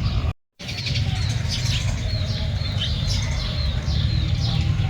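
Small birds chirping repeatedly in short, quick calls over a steady low rumble. The sound cuts out completely for a moment just after the start.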